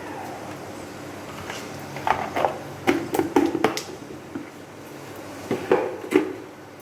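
Kitchen utensils and containers being handled at the stove: a run of sharp clicks and knocks about two to four seconds in, and a few more around six seconds.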